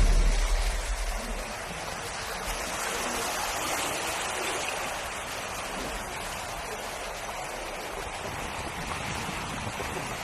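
Floodwater sloshing and rushing, a steady watery hiss. A vehicle's low engine rumble fades out in the first second or so.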